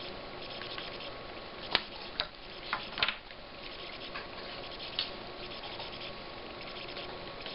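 Soldering a new tactile button's leads onto a circuit board: a faint, steady crackle with several sharp clicks and taps, clustered around two to three seconds in and once more about five seconds in.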